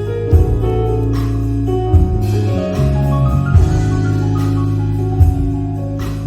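Live band playing an instrumental passage with no vocals: sustained keyboard-like chords over a bass line, and a slow, steady drum beat with a low drum hit about every second and a half, alternating with sharper hits.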